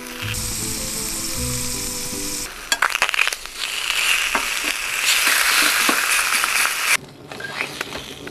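Butter-grilled abalone sizzling in a metal tray on a wood stove. Tongs click against the tray a few times about three seconds in, and the sizzling then grows louder before cutting off sharply about seven seconds in.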